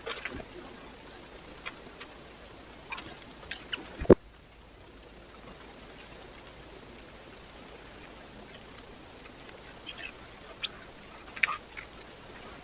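Small animals at a bird feeder: scattered short high calls and light taps, with one sharp click about four seconds in, over the trail camera's steady hiss.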